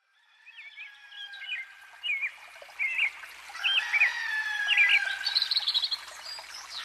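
Birds singing: short chirping phrases repeated about once a second, fading in from silence and growing louder, with a quick high trill near the end.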